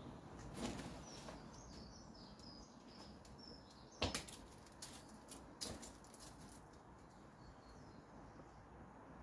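Small birds chirping faintly in the background. A sharp knock comes about four seconds in and lighter ones soon after, from a martial artist's strikes and footwork as he moves through a kung fu form.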